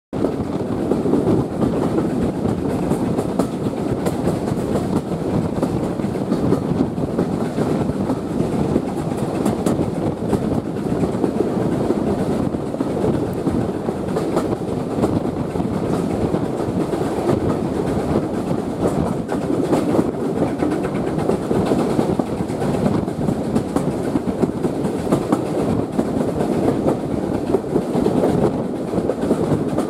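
Train rolling steadily along the rails: a constant rumble of wheels on track with frequent clicks as the wheels pass over the rail joints.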